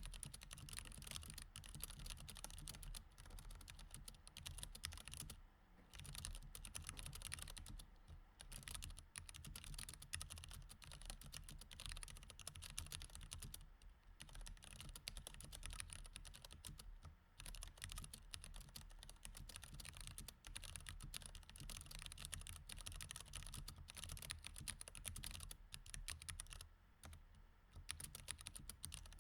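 Continuous typing on a mechanical keyboard with Cherry MX Red switches, keystrokes clicking in quick, uneven runs with short pauses several times.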